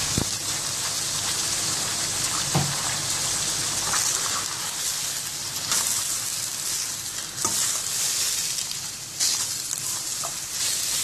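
Chicken pieces with onion, tomato and green chillies sizzling in hot oil in a steel kadai while being stirred with a perforated steel spatula. The spatula knocks and scrapes against the pan a few times.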